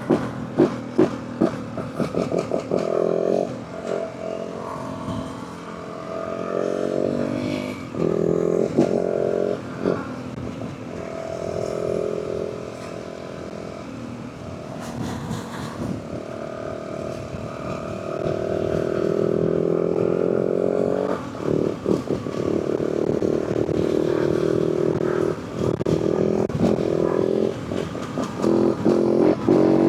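Yamaha WR450F dirt bike's single-cylinder four-stroke engine running under way, its pitch climbing and dropping again several times as the bike accelerates and shifts. Short sharp knocks cut through it, clustered in the first two seconds.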